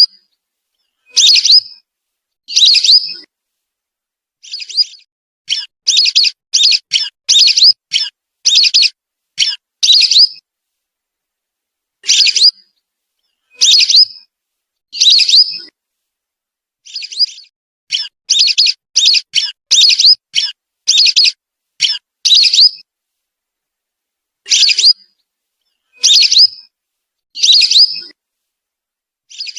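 Recorded whistling-duck calls played as a bird lure: short, high whistled notes, some single and some in quick runs of several, with clean silent gaps between them.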